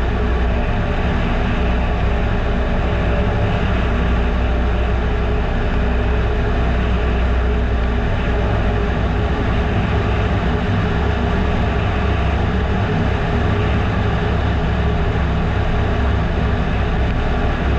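Piper Super Cub PA-18-150's 150 hp Lycoming four-cylinder engine and propeller droning steadily, throttled back on approach, heard from inside the cabin with airflow noise.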